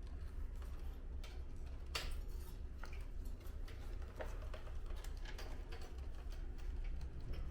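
Scattered light clicks and taps of parts being handled and fitted while reassembling an air conditioner's indoor unit, over a steady low hum.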